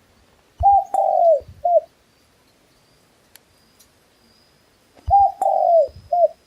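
A dove cooing: two identical three-note phrases about four seconds apart, each a short note, a longer falling note and another short note.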